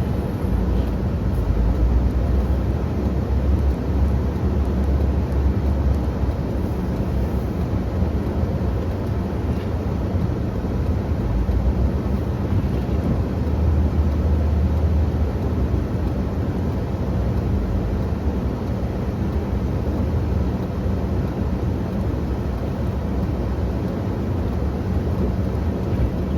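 Engine of a snow-pushing machine running steadily, with the low rumble swelling under load twice, about a second in and again around halfway.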